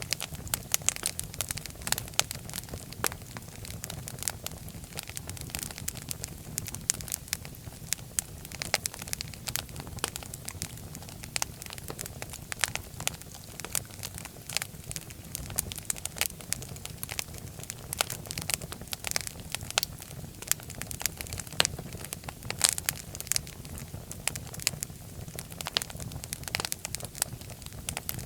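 Fire crackling in a fireplace: a dense, irregular run of sharp pops and snaps over a steady low rumble of the flames.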